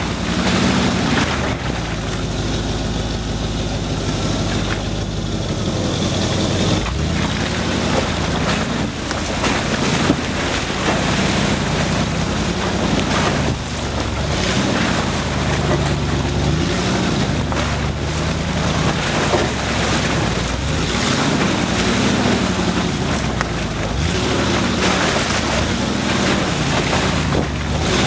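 Off-road 4x4's engine running and revving up and down as it drives slowly over rutted mud, with occasional knocks from the bumpy ground.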